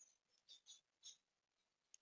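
Faint, short high-pitched chirps from small garden birds, three or four in quick succession in the first half, then a faint click near the end.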